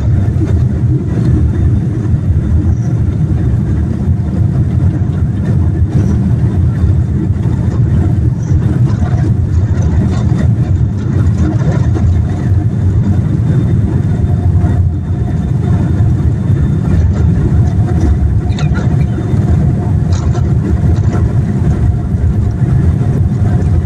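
Boeing 787 airliner's engine and cabin noise heard from inside the cabin: a steady, loud low rumble.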